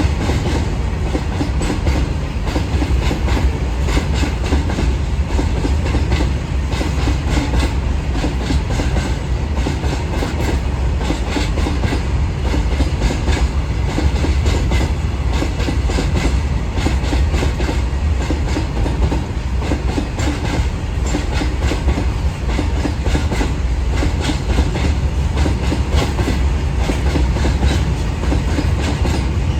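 Freight train's wagons rolling past at close range: a steady, loud low rumble with a continuous clatter of wheel clicks over the rail joints.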